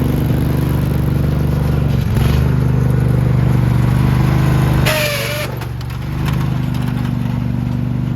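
Craftsman riding lawn mower's small engine running steadily. It gets a little louder about two seconds in, then drops after a brief clatter about five seconds in, and settles back to a steady run.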